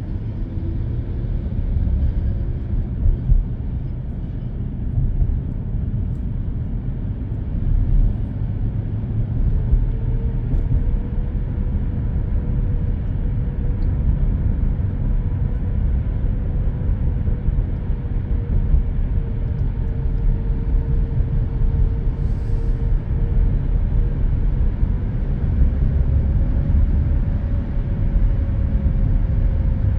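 Steady low road and engine rumble inside a car cruising on an expressway, with a faint wavering whine running over it.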